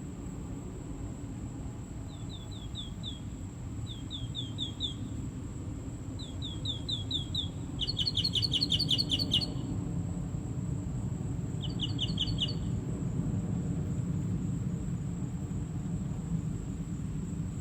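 A songbird calling in short series of quick falling chirps, four to eight in a row, with pauses of a second or two between series; the middle series is the loudest and fastest. A steady low rumble runs underneath.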